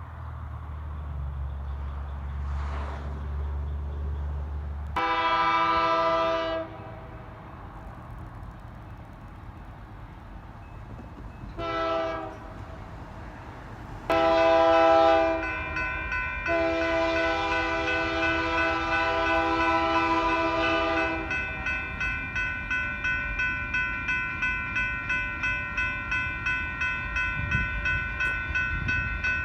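Union Pacific freight train approaching: a low diesel drone, then the locomotive's multi-note air horn sounding a long blast, a short one and two more long blasts. After the last blast the wheels clack over the rail joints at about two beats a second as the cars roll by.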